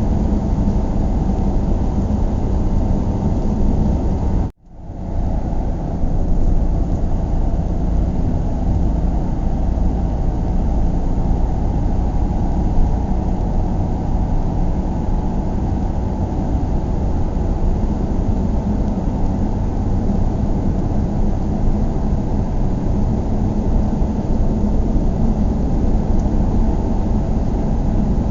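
Steady low road and engine noise of a car being driven, heard from inside the cabin, with a faint steady hum. The sound cuts out abruptly about four and a half seconds in and fades back up over a second or so.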